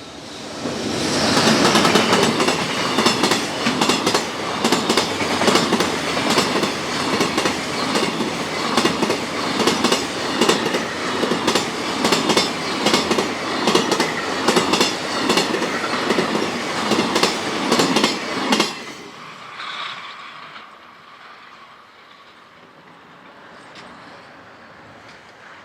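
Freight train hauled by an EH500 electric locomotive passing close by, its wagons' wheels clicking steadily over the rail joints. It cuts off suddenly when the last wagon has passed, leaving a faint fading rumble.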